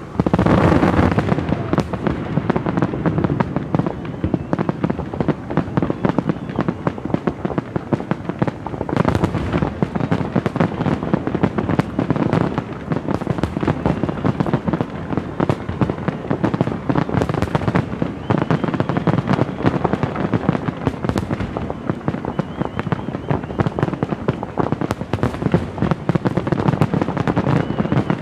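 Fireworks finale: a continuous rapid barrage of aerial shell bursts and crackling, opening with a loud burst.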